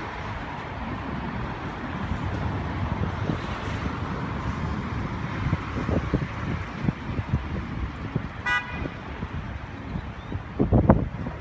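Low rumble of street traffic, with a short car-horn toot about eight and a half seconds in.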